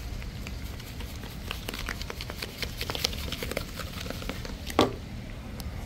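Salmon, turkey and sweet potatoes frying in coconut oil in a skillet, crackling and popping irregularly. One louder knock near the end.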